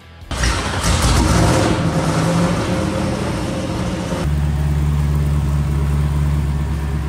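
Twin-turbo LS V8 in a 370Z drift car starting up about a third of a second in and running loud. Near the middle it settles into a steady, deep idle.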